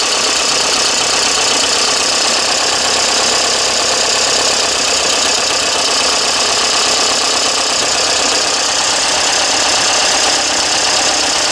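Pinzgauer 712M engine idling steadily, with a strong steady hiss over the running note.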